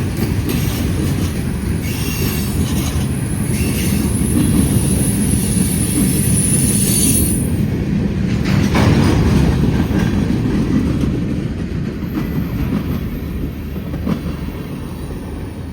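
Long freight train rolling past, its cars rumbling steadily, with a high wheel squeal through about the first half that then stops; the rumble eases off near the end.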